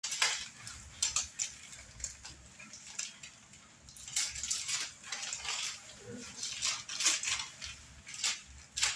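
A spoon and cup clinking: a run of irregular light clinks and knocks, about ten over the stretch, as when making a cup of coffee.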